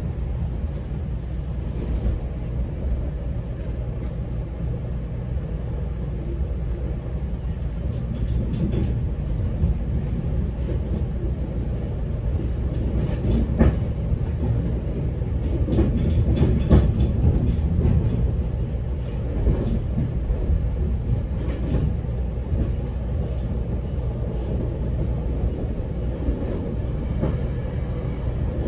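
GO Transit commuter train running between stations, heard from on board: a steady low rumble of wheels on the rails, with a few sharp knocks, the loudest about 13 and 17 seconds in.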